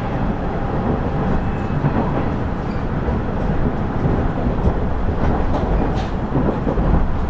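KiHa 110-series diesel railcar (KiHa 112) running along the line: a steady low rumble of engine and wheels on the rails, with a few faint clicks about five to six seconds in.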